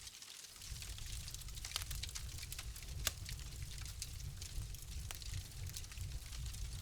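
Wood fire crackling: irregular sharp pops and snaps over a low steady rumble, with one louder crack about three seconds in.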